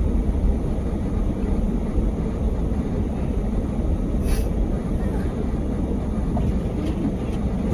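Car driving slowly over a deep-snow road, heard from inside the cabin: a steady low rumble of engine and tyres ploughing through snow.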